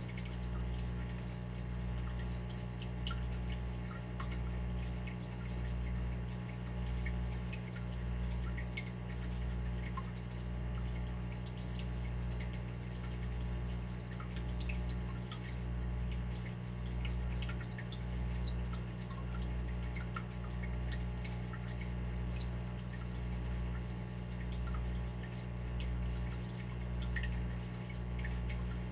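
Water running steadily with scattered small drips and droplet ticks, over a low rumble that swells and fades in a slow, even pulse.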